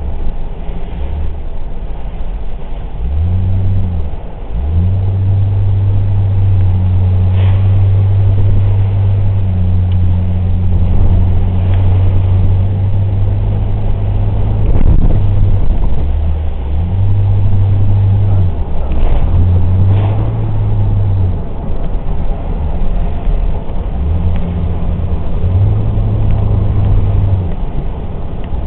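Toyota 86's engine running under load while driving, its note stepping up and down several times as it revs and drops back, over steady road noise.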